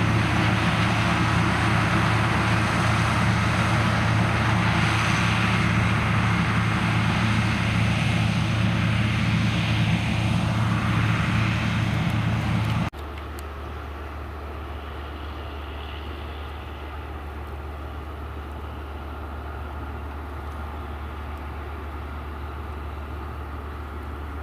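Harvest machinery running steadily with a heavy engine drone. About halfway through it drops suddenly to a quieter, steady low engine hum.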